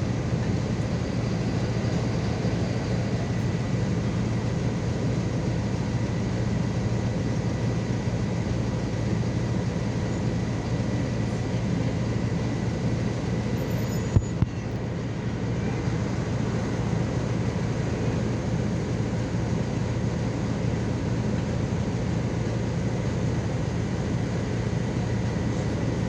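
Steady engine and running noise of a MAZ 216 articulated city bus heard from inside, a low even hum with no change, broken by two short clicks about fourteen seconds in.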